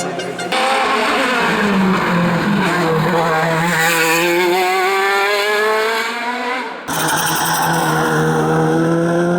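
Competition car engine at high revs, its note climbing as it accelerates hard up the hillclimb course. The sound changes abruptly about half a second in and again near seven seconds, as if cut between passes.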